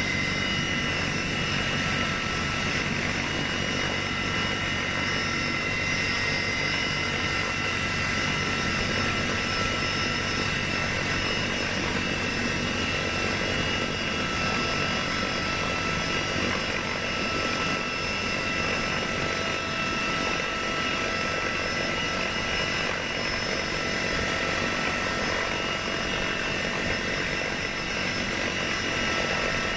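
A large engine or turbine running steadily, with several high whining tones held over a rushing noise.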